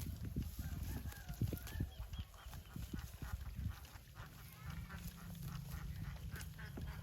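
Cattle: scattered low knocks and shuffling, then a low, drawn-out moo that begins about halfway through and holds steady.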